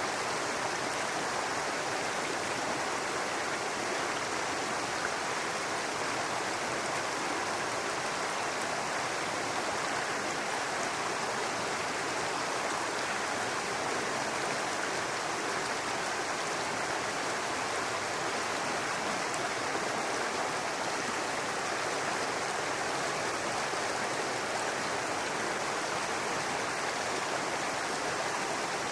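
A small brook babbling steadily over rocks, a constant rush of flowing water.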